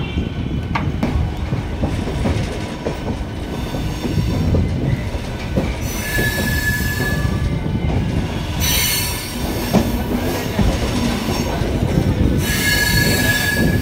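Train rolling slowly into a station, heard from inside a coach: a steady rumble of wheels on rail, with the wheels squealing in three stretches, near 6 s, 9 s and at the end.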